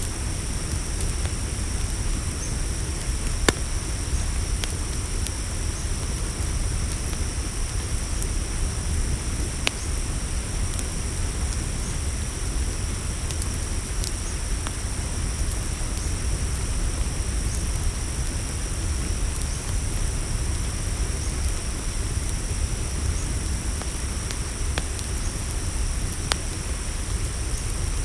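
Crickets trilling steadily at a high pitch over a campfire crackling, with a low steady rumble and a few sharp pops scattered through.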